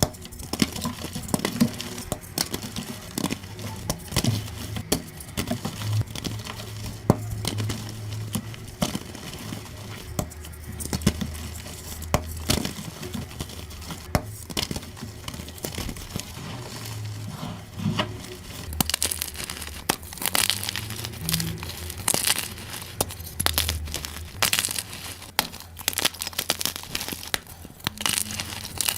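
Gym chalk being crushed, a dense run of irregular crunches and crackles in a sped-up recording. The crunches turn sharper and crisper about two-thirds of the way through.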